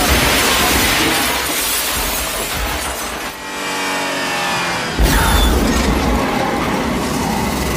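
Car-chase sound effects: glass shattering and crashing, with car engines and film score underneath. A sudden heavy impact comes about five seconds in.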